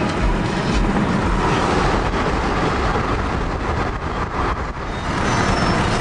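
A vehicle driving: steady, loud road and engine noise.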